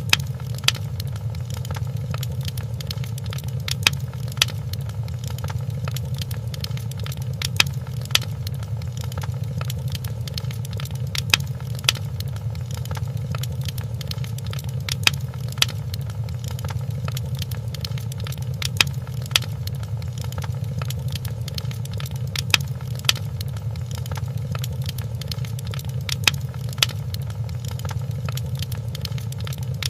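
Wood fire crackling in a fireplace: a steady low rumble of flames with sharp pops that come in pairs about every four seconds, evenly repeating.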